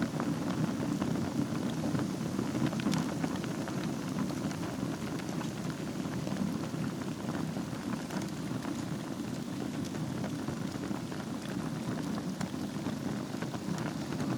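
Wood fire burning in a fireplace on a bed of embers: a steady low rumble with many small, scattered crackles and pops.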